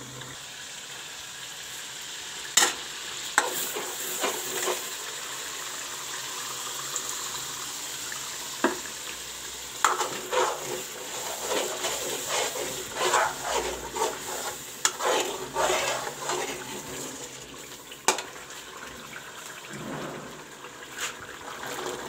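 Onion-tomato masala frying and sizzling in a steel karahi with a steady hiss. A steel spoon stirs and scrapes through it and clinks sharply against the pan now and then, with a busy spell of scraping near the middle.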